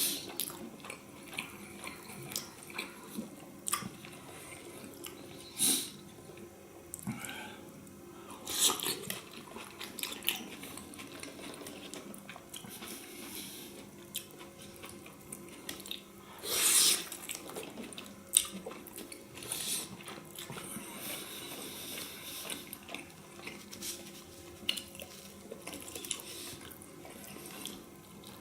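Close-miked chewing of sauced beef tongue: wet mouth sounds and soft bites, with scattered short clicks and a louder burst of noise about 17 seconds in.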